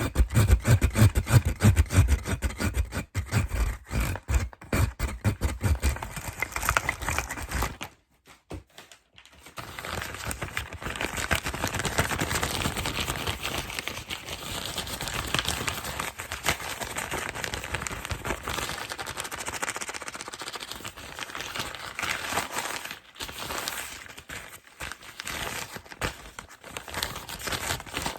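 Fast scratching and tapping on plastic and cardboard packaging close to the microphone, heavy and rapid at first. After a short pause about eight seconds in, it turns to steady crinkling and scraping.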